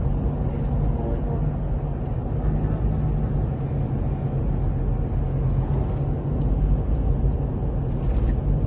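Steady engine and road noise of a car driving, heard from inside the cabin as a continuous low hum.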